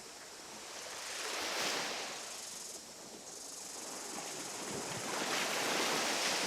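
Two slow, audible breaths that swell and fade with a hiss, like surf, over a steady background hiss. The second breath, near the end, is the louder.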